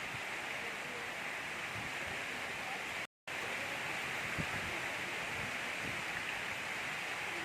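Steady gentle rain falling, an even hiss with a few faint drips. It cuts out completely for a split second about three seconds in.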